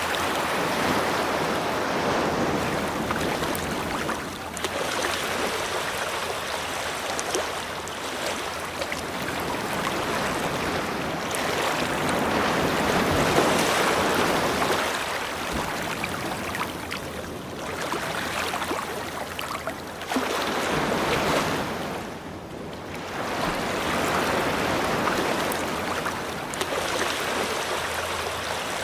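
Ocean surf: waves breaking and washing up a beach, a rush of water that swells and eases in slow surges, with a few brief lulls between sets.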